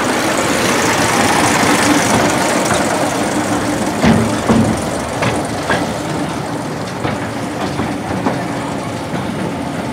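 Narrow-gauge train moving slowly through a railway yard: a steady rushing running noise with a low engine hum, and a few sharp metal clanks between about four and six seconds in.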